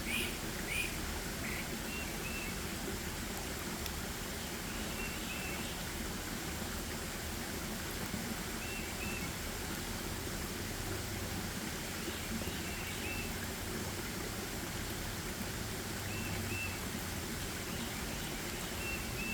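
Forest ambience: a steady hiss underneath, with a small bird giving a short two-note call every few seconds and a quick flurry of brighter chirps at the very start.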